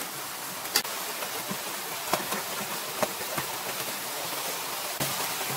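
Fish cake and fried tofu strips sizzling in a frying pan, a steady hiss. A few sharp clicks of utensils knocking the pan cut through it, the loudest about a second in.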